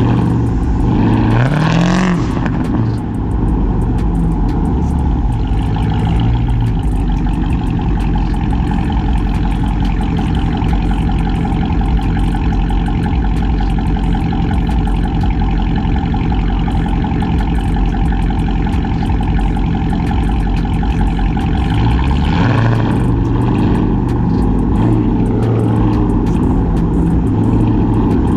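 Cammed, catless, straight-piped Chrysler 300C Hemi V8 exhaust under way. It revs up in the first couple of seconds, then holds a steady drone for most of the stretch, and rises again on a second pull near the end.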